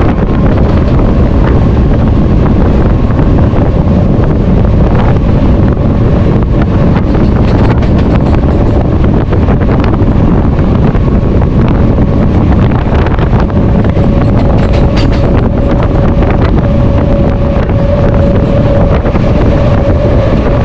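MEMU electric passenger train running at speed, heard from on board with wind buffeting the microphone. A steady whine sits over the running noise and grows stronger near the end.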